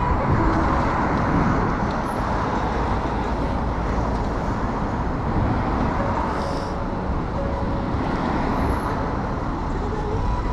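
Steady rumble of wind on the microphone mixed with road traffic noise, without a break.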